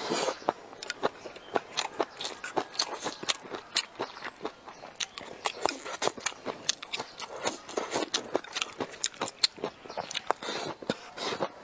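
Close-miked chewing of a mouthful of rice mixed with sour pickled long beans: wet, irregular lip smacks and many short clicks and crunches.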